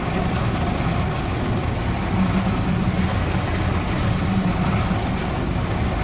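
Automatic car wash machinery running around the car, heard from inside the cabin as a steady low rumble with a hiss over it.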